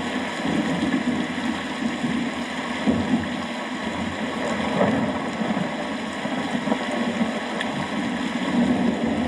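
Steady rain falling, a dense hiss with a low rumble beneath it that swells and fades slightly.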